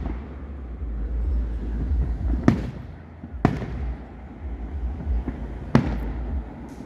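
Aerial fireworks shells bursting: four sharp bangs, the first about two and a half seconds in and the last one fainter, over a low rumble.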